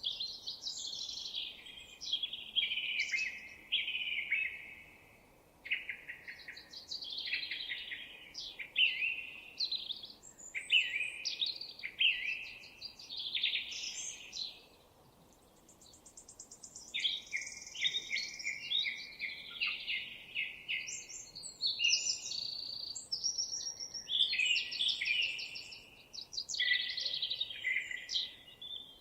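Songbirds singing: a dense run of quick, varied song phrases one after another, with a brief lull about halfway through before the singing picks up again.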